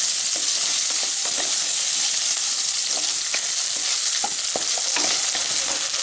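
Green banana pieces sizzling steadily as they fry in hot oil in a non-stick wok. A wooden spatula stirring and turning them makes short taps and scrapes against the pan now and then.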